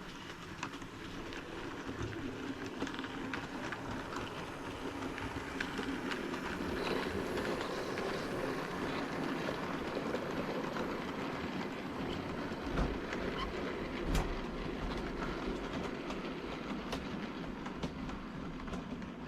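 Model West Country locomotive hauling a goods train, running along the model railway track: a steady rolling rumble of wheels and motor that swells toward the middle as it passes, with a couple of sharp clicks over rail joints or points.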